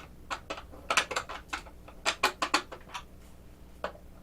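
Small metal hand tools, hex keys, clicking and clinking as they are handled and worked on small bolts: a run of sharp, irregular clicks, a few every second.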